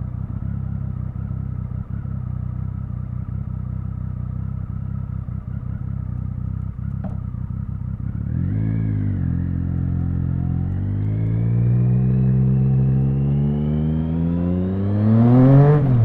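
Triumph Speed Triple 1050's three-cylinder engine idling steadily for about eight seconds, then a quick blip of the throttle. It then pulls away and accelerates, its note climbing steadily until it peaks and drops near the end as the rider shifts.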